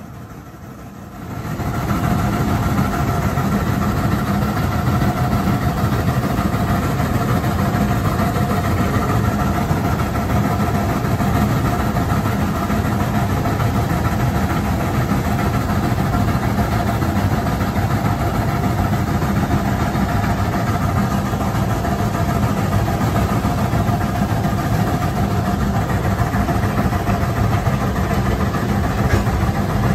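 Train hauled by the Shay geared steam locomotive running, heard from aboard: a steady heavy rumble that comes up about a second and a half in, with a faint steady whine over it.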